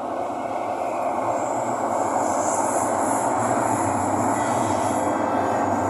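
Thomson-East Coast Line metro train running between stations: a steady rumble of wheels and running gear that builds slightly over the first second. A thin high squeal from the wheels joins it about a second and a half in.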